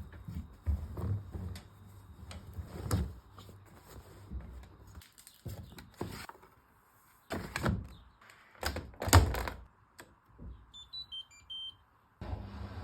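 Hoover H-Wash 500 washer-dryer being handled: a series of knocks and clunks from its door, the loudest about nine seconds in. A few short control-panel beeps follow, then near the end the machine starts up with a steady hum.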